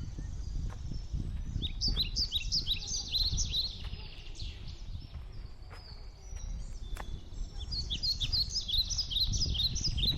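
Small birds chirping: rapid series of short, high chirps in two bouts, one starting about a second and a half in and another in the last few seconds, over a low rumble.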